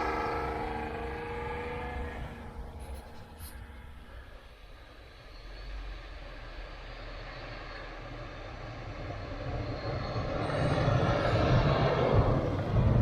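Off-road 4x4 truck engine working through deep snow. A steady engine note fades over the first few seconds, then engine noise with a rushing hiss builds up again and is loudest near the end.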